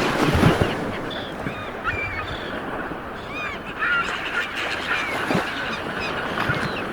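Sea waves washing on the shore in a steady surf hiss, with many birds giving short calls throughout and a louder wave surge about half a second in.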